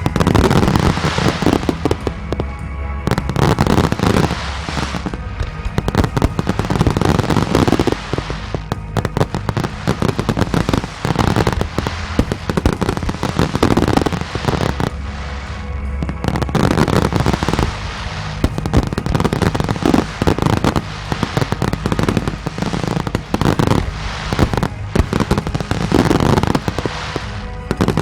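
Fireworks finale: aerial shells bursting in rapid, dense volleys with crackle, swelling in waves every few seconds. Music plays underneath.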